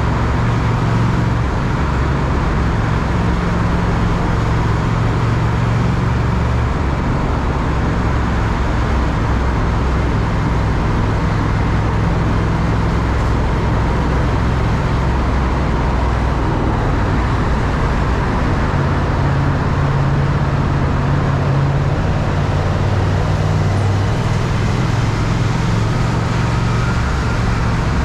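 Triumph Speed Twin parallel-twin engine running while riding, its low note shifting a little with speed, over steady wind and road noise.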